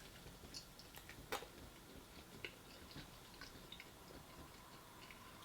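Faint, close chewing of a bite of deep-fried chimichanga, with soft mouth clicks and small crunches scattered through, one sharper crunch about a second in.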